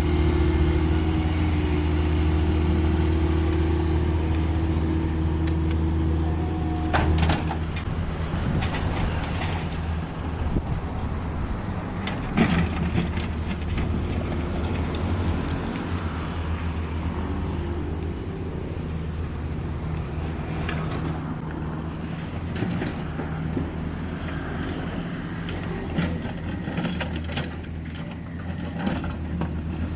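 Diesel engine of a Cat 305.5E2 mini excavator running steadily, with a whine over it for about the first seven seconds. After that it settles lower, with a sharp knock and then scattered knocks and clatter as soil is dug and dropped.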